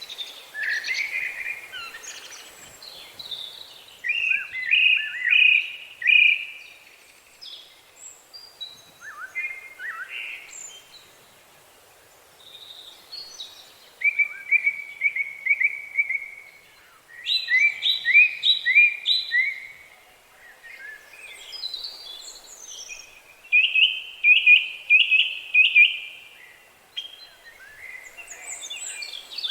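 Songbirds singing: short phrases of quickly repeated high notes, each lasting a second or two, with scattered single chirps between them, over a faint steady background hiss.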